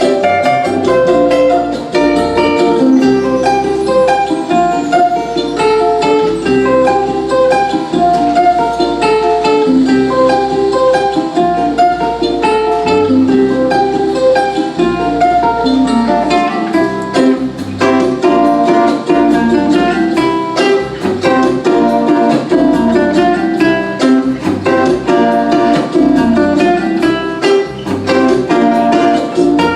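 Fingerstyle ukulele playing an instrumental melody of quick plucked notes, with a low bass part sounding underneath.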